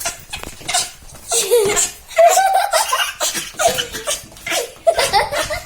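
People laughing and giggling in repeated short bursts, about two a second.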